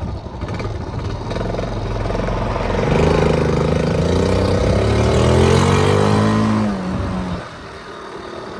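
Honda C70's small four-stroke single-cylinder engine pulling the bike along, revving up with a rising pitch for a few seconds, then easing off about seven seconds in.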